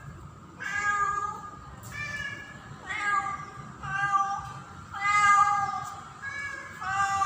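Female domestic cat in heat calling for a male: a string of drawn-out, pitched meows, about one a second, some rising at the start.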